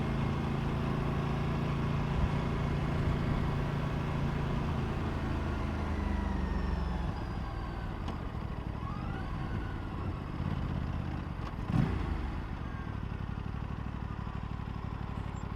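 Aprilia RS 457's parallel-twin engine running steadily under throttle while riding. About halfway through, the throttle closes and the engine drops to a lower, quieter note. A single short knock comes near the end.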